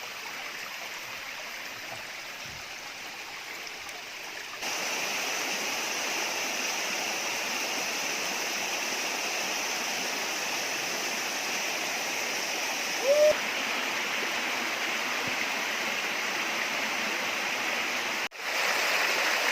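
Waterfall: steady rushing of falling water, which grows louder about five seconds in. A single short rising-and-falling whistle-like call sounds briefly over it about two-thirds of the way through.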